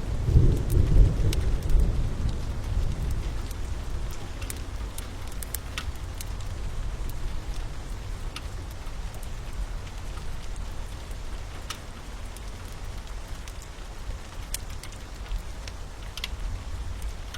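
Steady rain with scattered sharp pops and crackles from a wood fire. A low rumble of thunder swells about a second in and dies away over the next few seconds.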